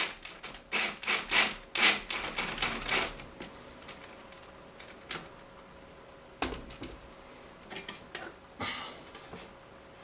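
Clicks and knocks of plastic and metal washer-door hinge parts being handled and pushed into place, a quick run of them over the first few seconds, then a lone click, a knock, and a brief scrape near the end.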